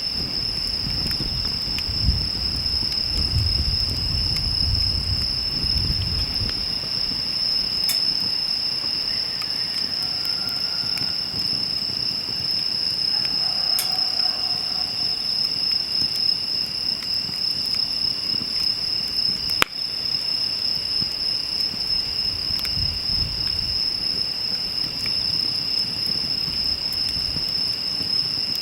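Insects trilling in one steady, unbroken high tone, with a wood fire crackling faintly beneath and a single sharp pop about twenty seconds in.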